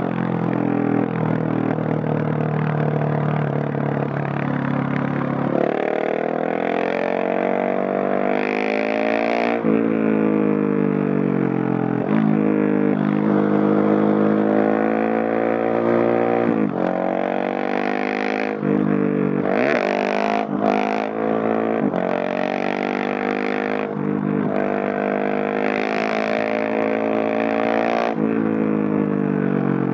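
Husqvarna 701SM's single-cylinder engine through a Leo Vince Nero stainless exhaust, accelerating hard through the gears. The pitch climbs for a few seconds at a time, then drops sharply at each upshift, with a short choppy patch about two-thirds of the way through.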